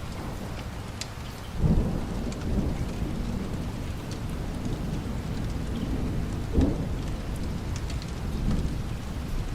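Steady light rain with low rolling thunder, swelling loudest about two seconds in and again near seven seconds, with a few faint sharp ticks over the rain.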